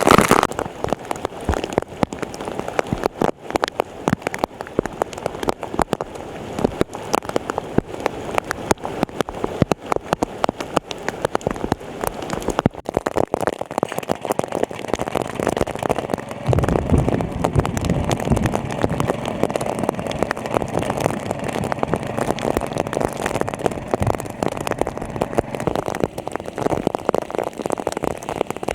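Rain pattering with dense crackling drops; a low, steady engine hum comes in a little past halfway.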